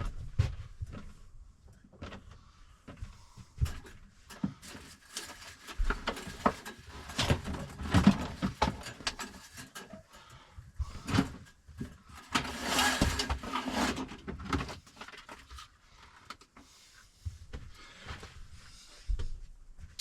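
Irregular knocks, clicks and rustling of objects being handled in a small enclosed space, with a denser stretch of noise a little past the middle.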